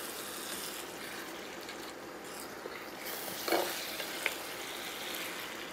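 Goat trotters sizzling as they are sautéed in masala in a nonstick pot (the bhuna stage), stirred and scraped with a slotted spatula. A couple of light knocks of the spatula against the pot come about three and a half and four seconds in.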